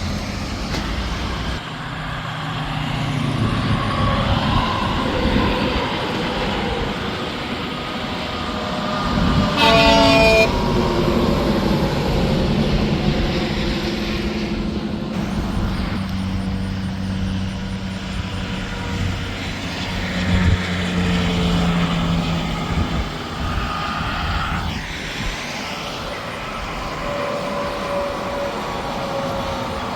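Steady interstate highway traffic: semi trucks' diesel engines and tyres passing one after another. About ten seconds in comes a short, loud air horn blast from a truck.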